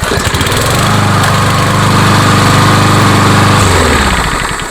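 Warm PowerMore 140cc single-cylinder lawnmower engine, pull-started, catches immediately and runs at a steady speed. After about three and a half seconds it is shut off and winds down. The easy warm restart shows the auto choke staying open, with no rich start.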